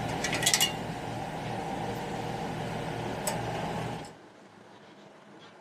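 Sharp metal-on-metal clinks, a quick cluster under a second in and one more about three seconds in, over a steady mechanical hum; the hum drops away abruptly about four seconds in.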